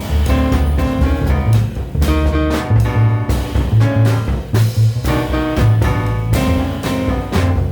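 Free-leaning jazz piano trio playing: acoustic piano chords and runs over a walking double bass and a drum kit with busy cymbal and drum strikes.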